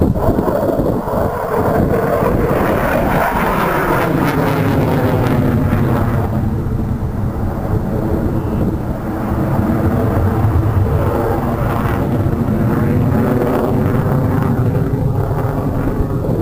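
Jet fighter flying past, a loud continuous jet noise whose tone sweeps downward over the first several seconds and rises again near the end.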